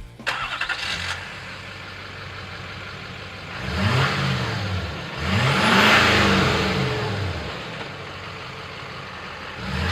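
A 6.6-liter Duramax V8 turbo diesel idling through a Flowmaster Force II dual-tailpipe exhaust, revved twice: a short blip about four seconds in and a longer, louder rev about two seconds later, each rising and falling back to idle.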